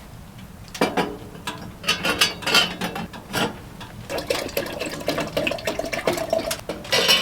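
Camp kitchenware being handled: irregular clicks, light knocks and rubbing, growing denser in the middle.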